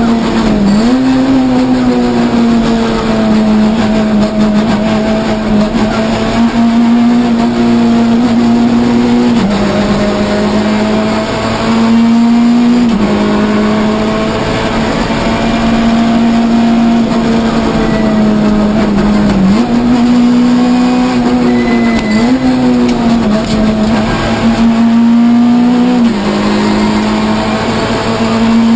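Citroën C2 R2 rally car's engine heard from inside the cabin, running hard at high, near-steady revs on a special stage. Its pitch steps down and back up several times.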